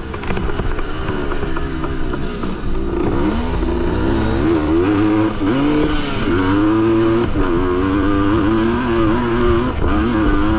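1973 Yamaha MX250's two-stroke single-cylinder engine under racing throttle, its pitch rising and falling again and again as it revs and changes gear.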